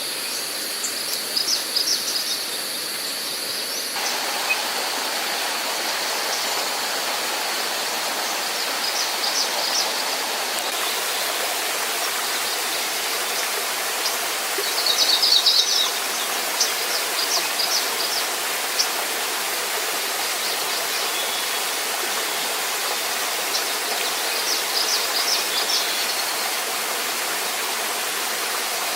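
Steady rushing water, which fills out lower about four seconds in, with short bursts of bird chirps near the start, about halfway through and again near the end.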